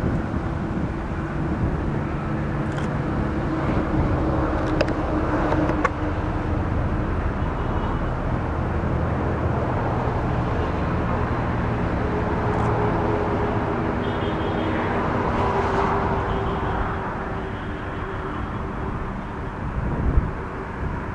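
ALCO diesel locomotive engine running with a steady low drone, with two sharp clicks about five and six seconds in.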